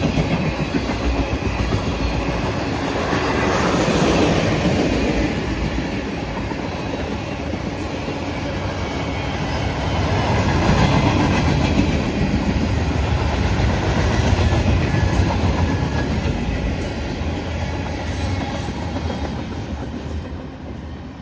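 Freight train's cars rolling steadily past, with steel wheels clacking over the rail joints. The rumble swells a couple of times and then fades near the end as the last cars go by.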